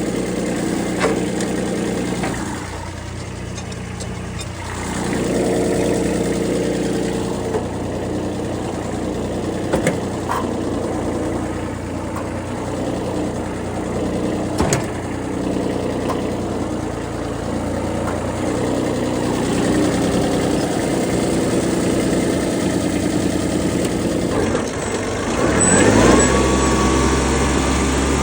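Kubota B6001 tractor's three-cylinder diesel engine running steadily, with a few sharp knocks along the way. Near the end it speeds up with a rising pitch and holds at the higher speed.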